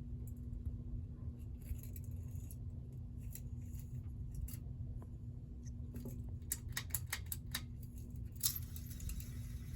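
Mainstays ceiling fan running with a steady low hum and air rush, with scattered light clicks and ticks, bunched near the middle-to-late part.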